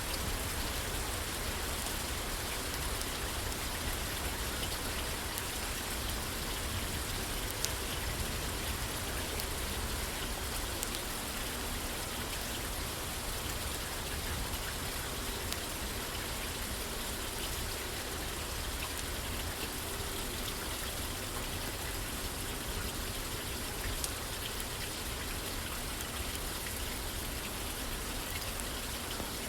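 Steady rain falling and pattering on a roof, with a few sharp isolated ticks now and then.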